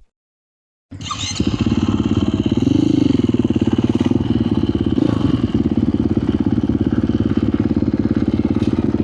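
Dirt bike engine idling with a steady, even beat, starting about a second in. About three seconds in there is a brief small rise and fall in pitch, like a light blip of the throttle.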